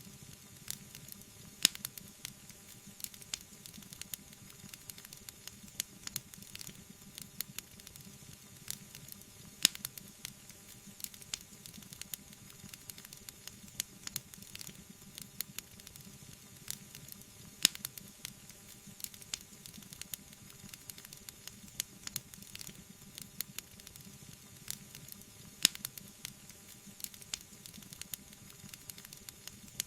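Wood fire burning in a fireplace: a steady soft hiss with constant irregular crackling, and four louder pops about eight seconds apart.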